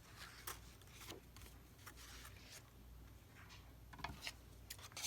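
Near silence with a few faint, short rustles and light taps of paper craft pieces being handled.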